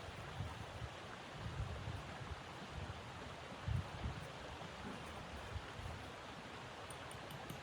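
Steady rushing blizzard wind, with irregular low rumbling gusts buffeting the microphone and one stronger gust a little under four seconds in.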